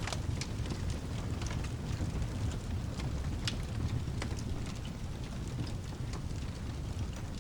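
Wood fire crackling, with irregular sharp pops over a steady low rumble and light rain hiss.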